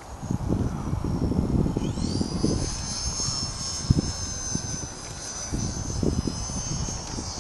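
Airplane engine noise: a low rumble with gusty swells, and about two seconds in a high whine that rises and then holds steady, as the engine spools up.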